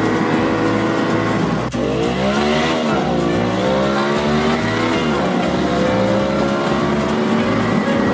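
Dubbed-in car engine sound effect for the racing toy cars: a steady engine drone whose pitch swoops down and back up about two seconds in, then holds and slowly climbs, like revving.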